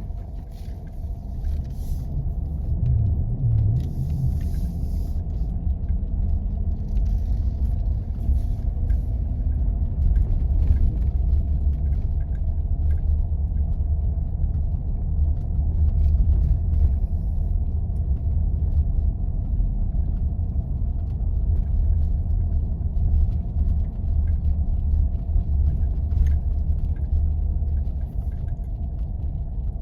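A 4x4 driving on snow-covered roads: a steady low rumble of engine and tyres, with faint scattered crunches and ticks over it.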